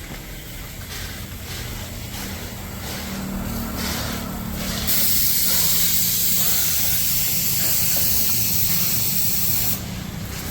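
Bike-wash spray gun spraying onto a motorcycle over the steady hum of the washing machine's motor: a few short squirts, then one long continuous spray from about halfway in that cuts off suddenly near the end.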